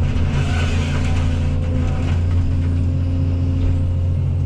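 Excavator's diesel engine running steadily under load, a deep even hum, with a brief clatter in the first second or so.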